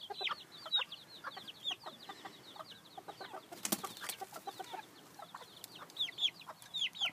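Chicks peeping over and over, each peep a short high note sliding downward, with a single sharp click about four seconds in.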